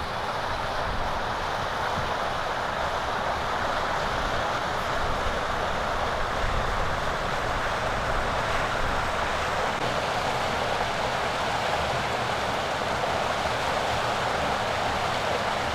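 Steady road and tyre noise of a Mercedes-Benz car on the move, heard from inside the cabin, with a low rumble under it.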